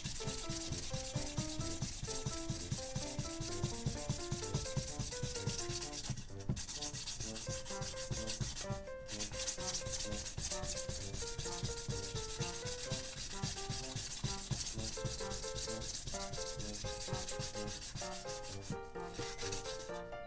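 Hand sanding of a small model part: sandpaper rubbing back and forth in fast, even strokes.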